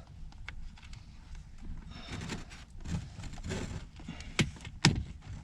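Scattered knocks and clicks of car interior trim parts and clips being handled, with two sharp clicks about half a second apart near the end.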